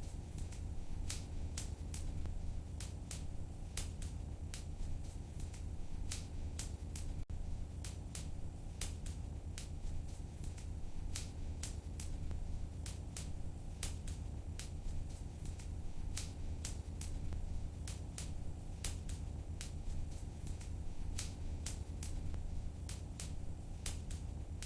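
Fire in a fireplace crackling: irregular sharp pops, several a second, over a steady low rumble of the flames.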